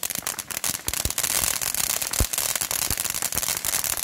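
Two ground fountain fireworks spraying sparks: a steady hiss filled with dense crackling, with a few louder pops, one about halfway through.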